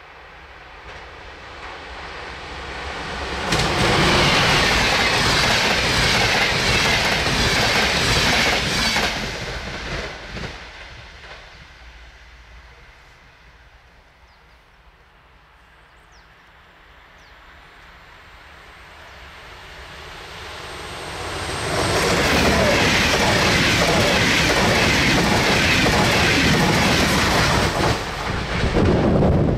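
Two fast trains passing over station switches and rail joints, wheels clattering. The first goes by about 4 to 9 seconds in and fades. The second, a Railjet hauled by a Siemens Taurus electric locomotive, gets loud from about 22 seconds in and stays loud as it runs in close.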